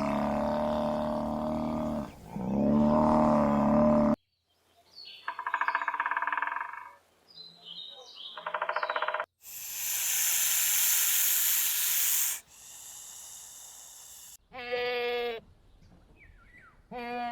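A run of different animal calls, one after another: two long pitched calls, then a series of shorter, higher calls, then a loud hiss lasting a couple of seconds about ten seconds in, and short pitched calls near the end.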